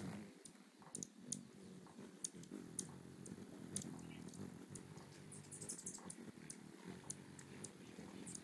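Hummingbirds' wings humming steadily as they hover to feed, with sharp high chip calls scattered through and a brief burst of high twittering about five and a half seconds in.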